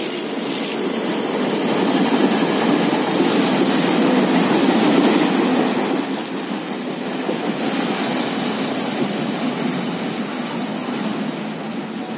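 Passenger train running past at speed: a steady rush of wheel and rail noise, loudest a few seconds in and easing off slightly toward the end.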